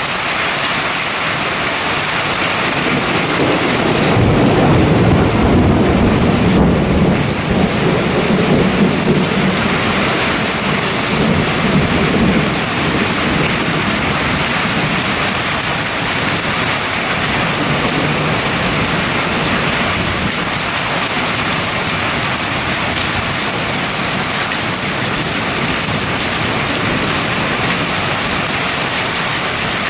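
Steady heavy rain with a long rolling rumble of thunder that builds about three seconds in and dies away after roughly ten seconds.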